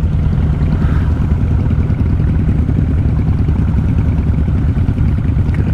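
Motorcycle engines running with a steady, deep rumble of rapid firing pulses. It includes an old-school cruiser that the rider takes for a single-cylinder thumper, described as very loud.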